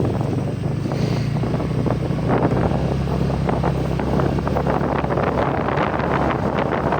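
An engine running steadily with a constant low hum, while wind buffets the microphone with a rough, crackling rush.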